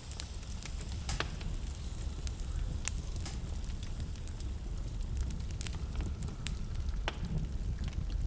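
Fireplace fire crackling: a steady low rumble of burning with irregular sharp pops and snaps, a few louder ones scattered through.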